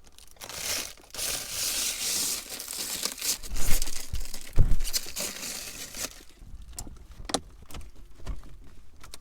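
Crinkling and tearing noise, heaviest from about half a second to six seconds in, with scattered sharp clicks and a couple of dull knocks.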